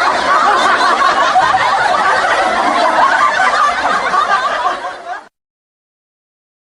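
Sitcom-style audience laugh track: many people laughing and chuckling together, which cuts off abruptly a little past five seconds in, leaving dead silence.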